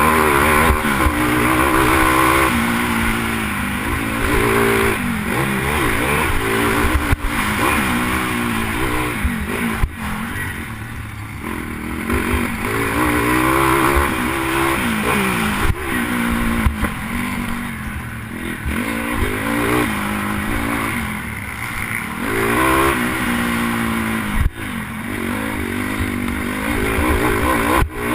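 Pitbike engine racing on a supercross track, revving up and falling back over and over as the rider accelerates and shuts off, heard from the rider's helmet camera. A few sharp knocks cut through now and then.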